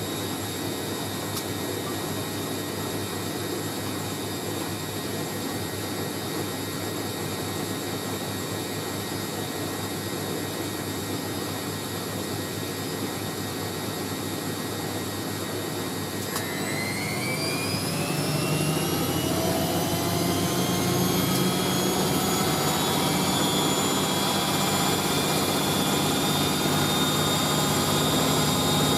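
Hoover A3060 Electronic 1100 washing machine on its spin: a steady whine at first, then a little past halfway the motor speeds up. The whine rises in pitch and grows louder as the drum ramps up to a faster spin.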